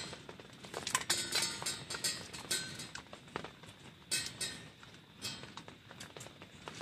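Cutlery and dishes clinking and clattering irregularly, with short knocks and a few brief ringing clinks.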